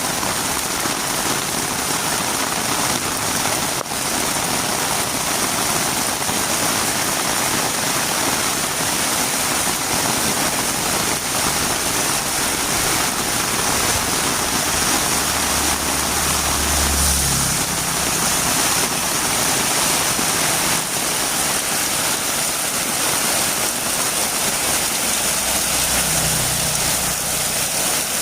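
Heavy rain falling steadily, with a low engine hum rising in for a few seconds about halfway through and again near the end.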